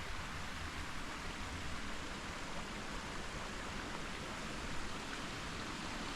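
Creek water flowing steadily over its bed, a continuous even rush.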